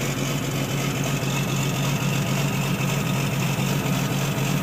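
Detroit Diesel Series 60 inline-six diesel in a 1990 Peterbilt idling steadily at its fast warm-up idle of about 900 rpm, just after a cold start.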